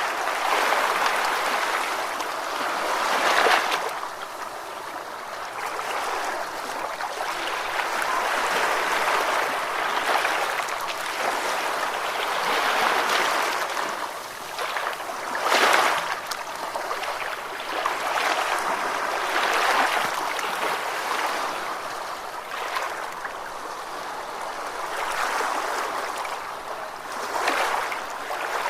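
Ocean waves: a continuous hiss of surf that swells and ebbs every few seconds, with sharper surges about three seconds in, in the middle, and near the end.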